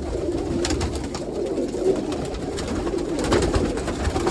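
Domestic pigeons cooing continuously, a low warbling murmur from many birds, with light scattered clicks and scuffs of birds moving.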